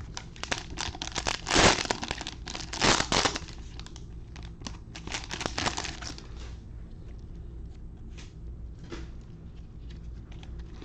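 Plastic wrapper of a pack of trading cards being crinkled and torn open, with two louder rips about two and three seconds in, then lighter crinkles and rustling as the cards come out.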